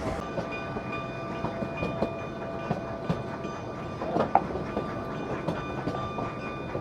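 Cumbres & Toltec narrow-gauge train cars rolling along the track: a steady rattling rumble with scattered sharp clicks from the rails, and a thin, steady high squeal running underneath.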